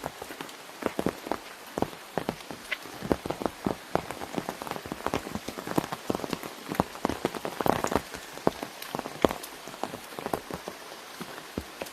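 Raindrops hitting an umbrella canopy overhead: many irregular sharp taps over a steady hiss of falling rain.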